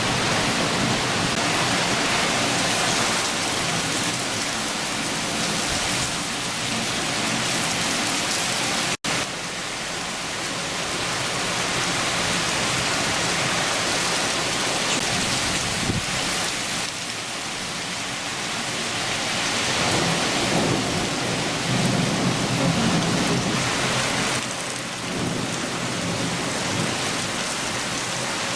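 Rain falling steadily in a downpour, with a low rumble of thunder rising between about twenty and twenty-four seconds in. The sound drops out for an instant about nine seconds in.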